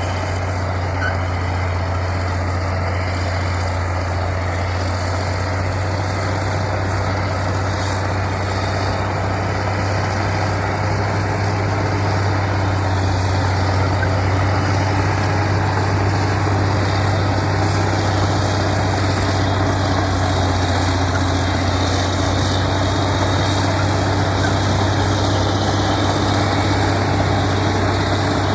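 Heavy diesel engine of earthmoving machinery running steadily with a constant low hum, growing a little louder over the first part.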